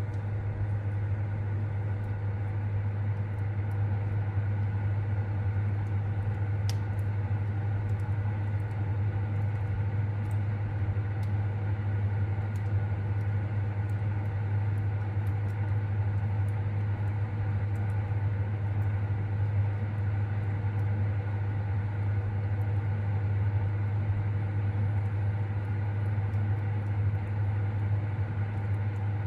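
Fireplace with a steady low mechanical hum throughout, with faint scattered crackles and one sharper pop about seven seconds in.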